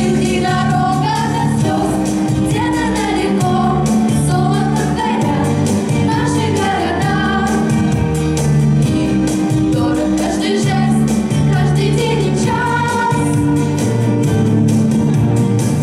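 Female voices singing a song with instrumental accompaniment, the sung melody carried over steady bass and chords.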